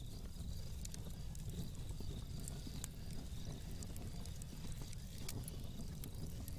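Fireplace crackling: scattered, irregular sharp pops and snaps over a steady low rumble.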